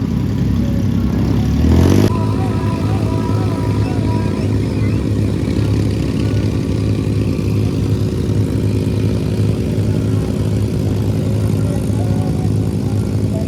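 A vehicle's engine running steadily, with a brief louder rev about two seconds in.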